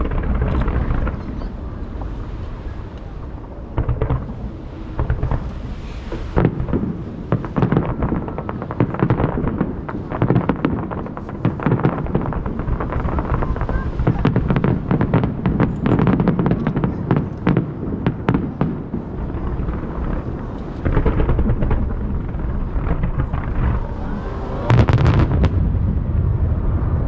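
Fireworks bursting in a rapid, continuous barrage: dense crackling over repeated deep booms. The biggest bursts come about six seconds in and again near the end.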